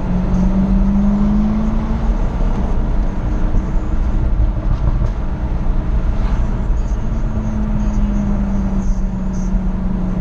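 Jaguar F-Type SVR's supercharged V8 under way, its note rising as it accelerates for the first couple of seconds, easing off, then rising again about seven seconds in and falling away near the end, over a constant low road rumble.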